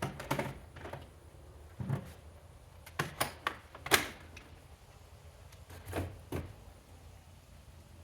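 Boxed vacuums being handled and set down: irregular knocks and thumps, the loudest about four seconds in.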